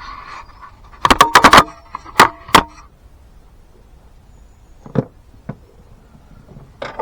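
Workshop clatter of tools and parts being handled: a quick run of sharp clicks and knocks about a second in, then a few lighter single clicks later on.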